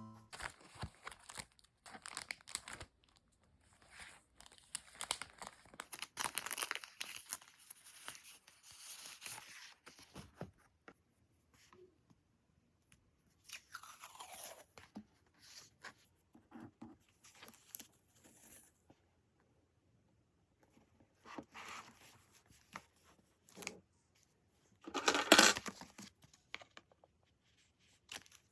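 Stickers and paper being handled for diary decorating: intermittent peeling, crinkling and rustling with small taps, in short bursts with pauses between, the loudest rustle coming near the end.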